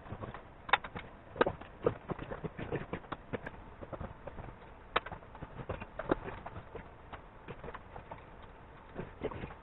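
Irregular knocks and clicks of hand tools and parts being handled, struck and set down while assembling a motorcycle, some louder clacks about three quarters of a second in, near one and a half seconds and at five seconds.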